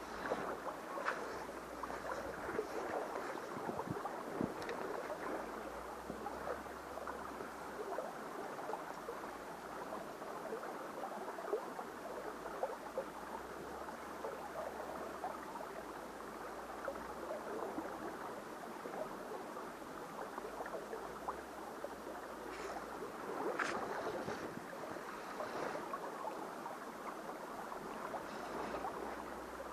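Mountain stream water running steadily over rocks, with a couple of brief knocks, one about a third of the way in and a clearer one near the end.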